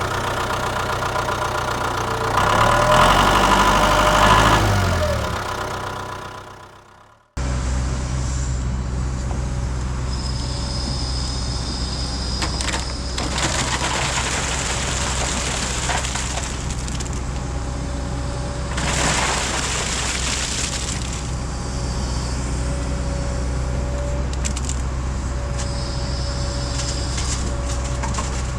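Diesel engine of heavy earthmoving equipment. Its pitch rises and falls as it revs, and it fades out about seven seconds in. Then it cuts back in and runs steadily with a low drone and a faint whine, with a few louder rushing swells.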